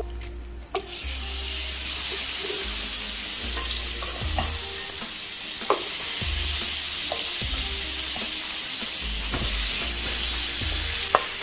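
Marinated chicken pieces sizzling in hot oil in a nonstick frying pan, the sizzle swelling up about a second in as the pieces go into the pan. A few short knocks of chicken and a wooden spatula against the pan sound over it.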